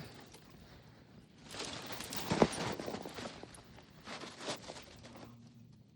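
Footsteps crunching in snow, a few uneven steps with one sharp click about two and a half seconds in.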